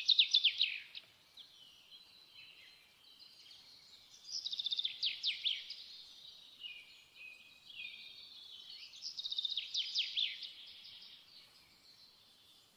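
A songbird singing in high, rapid trills. There are three louder phrases of quick sweeping notes, at the start, about four seconds in and about nine seconds in, with quieter warbling between them.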